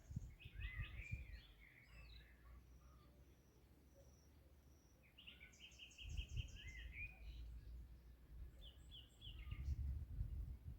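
Several songbirds singing and calling: a burst of chirps at the start, thin repeated whistles, then a quick trill of repeated notes about halfway through, over a low rumble.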